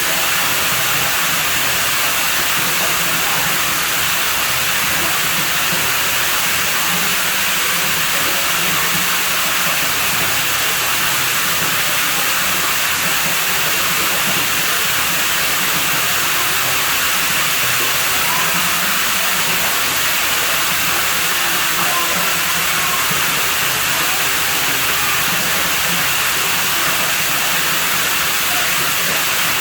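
Water running steadily, an even hiss that does not change.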